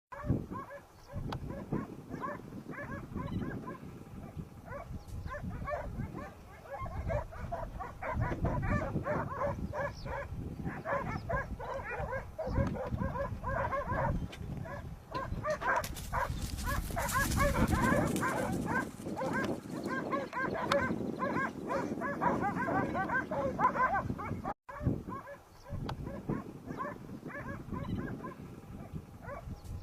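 Dogs barking and yelping at a wild boar, mixed with lower animal calls that fit the boar's grunts. The barking is continuous, loudest and most frantic in the middle.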